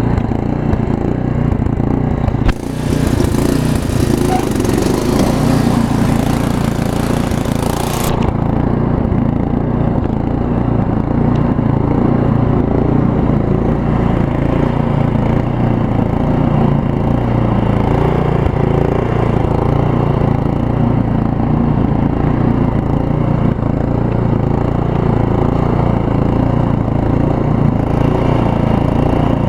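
Craftsman RE2000 Ride and Mulch lawn tractor engine running steadily. A sharp click about two and a half seconds in starts a hiss over the engine that stops abruptly about eight seconds in.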